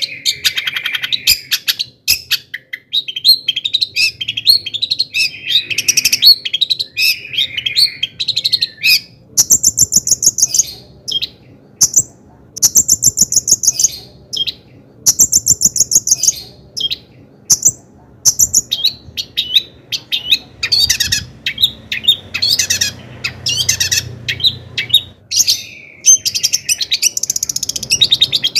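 Long-tailed shrike singing a fast, varied song without pause: scratchy chattering phrases, with several runs of high, rapid trills in the middle.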